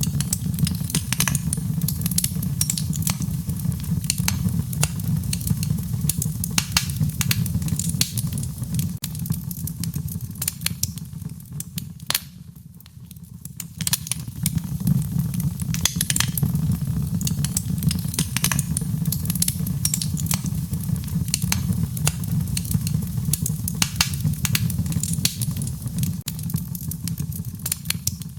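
Wood fire burning in a fireplace: dense crackling over a low steady rumble of the flames, thinning out briefly about halfway through before picking up again.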